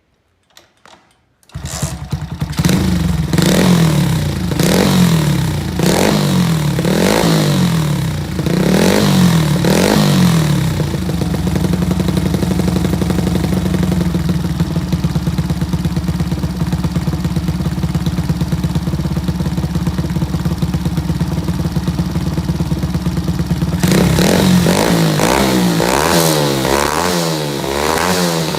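Honda Monkey's single-cylinder four-stroke HA03E swap engine, breathing through an aftermarket muffler of unknown make, starting after a few clicks. It is blipped up and down about seven times, idles steadily for about twelve seconds, then is revved in quick repeated blips near the end. The exhaust is very loud: 116 measured indoors.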